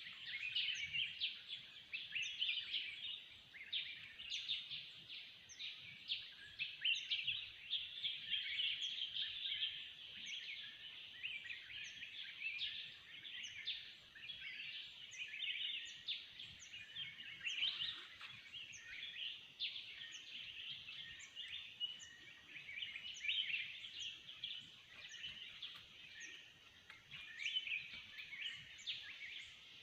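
A dense forest chorus of many birds chirping and calling at once, with a short high note repeated about once a second above the chatter.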